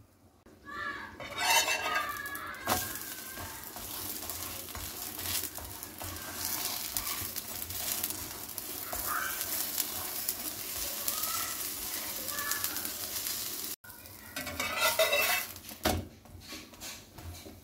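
Batter sizzling as it fries in a nonstick frying pan, with a metal slotted spatula scraping and pressing against the pan. The scraping is loudest about a second in and again about fifteen seconds in.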